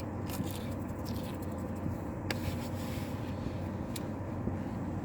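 Steady low hum of a truck idling with its air conditioning running, heard from inside the cab, with two faint clicks about two and four seconds in.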